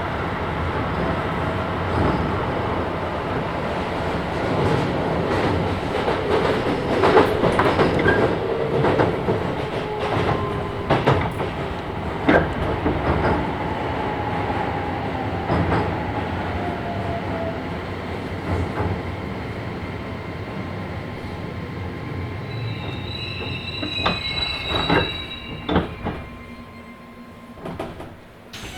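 Keisei 3000 series electric train with a Toyo IGBT VVVF inverter braking to a stop, heard from inside the car: inverter and traction-motor tones fall steadily in pitch, wheels click over rail joints, and high steady inverter tones sound near the end as the train slows. The sound quietens in the last couple of seconds as it comes to rest.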